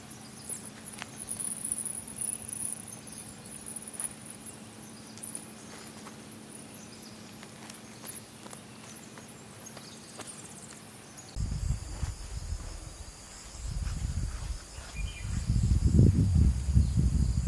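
Insects trilling in a steady high drone with scattered faint clicks. About eleven seconds in the sound changes abruptly: low rumbling buffeting hits the microphone and grows louder toward the end.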